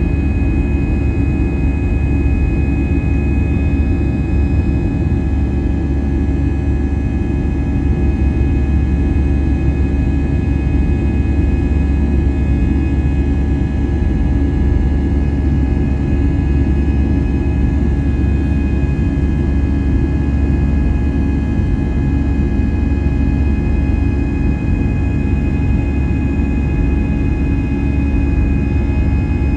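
Steady cabin noise of an Airbus A320-200's jet engines and the air rushing past: a constant low drone with a few steady whining tones over it.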